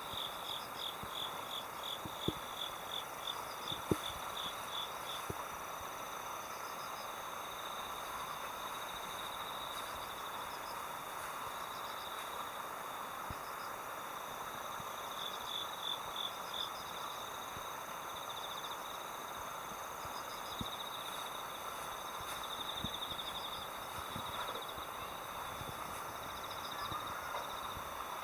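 An insect chorus of crickets: rapid pulsed chirps in repeated trills over a steady background hiss, with a few faint clicks.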